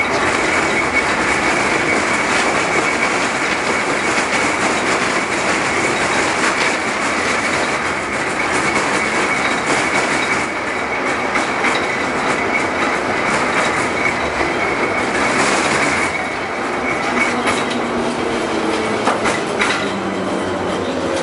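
LM-68M tram in motion, its steel wheels clattering over rail joints under a steady high whine. The whine stops about three-quarters of the way through.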